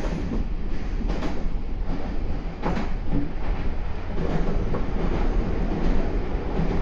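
Meitetsu 4000 series electric train running, heard from inside the passenger car: a steady rumble with a few sharp clacks, most likely from the wheels crossing rail joints.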